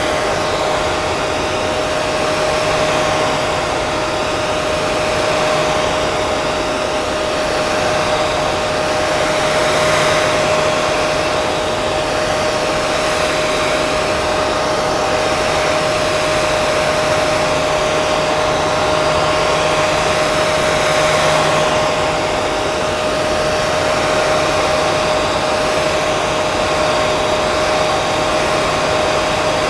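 Handheld hair dryer running steadily: a continuous rush of blown air with a steady motor whine, swelling and easing slightly every few seconds.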